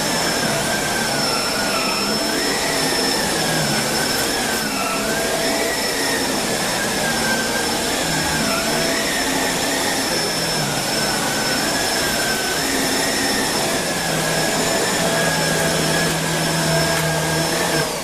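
Shark Rotator Speed Lift-Away upright vacuum cleaner running while vacuuming, with a steady whine over a rush of air. One tone in the whine wavers up and down as it works.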